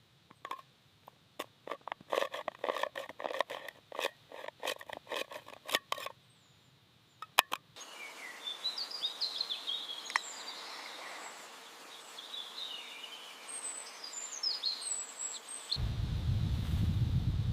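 Irregular sharp clicks and crackles for about the first six seconds. After a short lull, birds chirp over a quiet outdoor background. A low rumble comes in near the end.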